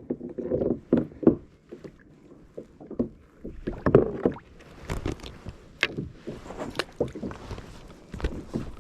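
Irregular knocks, thuds and clatter on a small fishing boat, at uneven intervals and of varying loudness.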